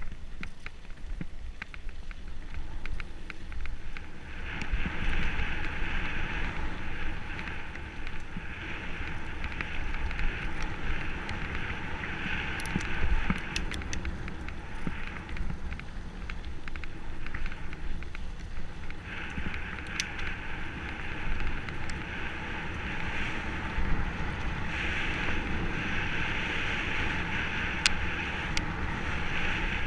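Mountain bike running downhill on a dirt trail: wind buffeting the microphone, tyres rumbling over the ground and the frame rattling on bumps. A high, even buzz comes and goes, cutting out for a few seconds in the middle.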